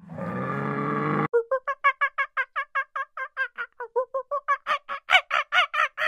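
A Highland cow lowing for about a second, cut off abruptly. It is followed by a long, even run of short, clipped animal calls, about five a second, which grow louder toward the end.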